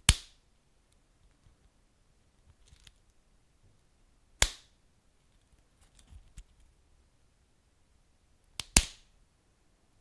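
Wood fire crackling, with three loud sharp pops (one at the start, one about halfway, and a quick double pop near the end) and faint small crackles between them.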